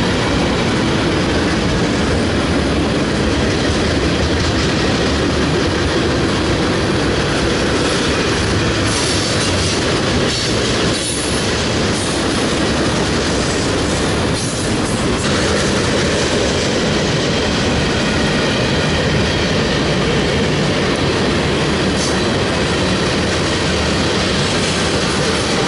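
Freight train cars rolling steadily past, with continuous wheel and rail noise and a few brief high wheel squeals.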